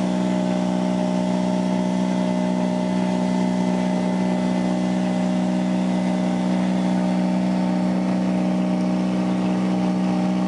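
Rally car engine idling steadily, holding one even pitch without revving.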